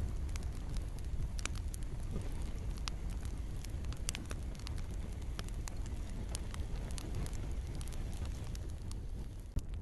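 Wood campfire crackling, with irregular sharp pops and snaps over a steady low rumble of burning, and a soft hiss of rain behind it.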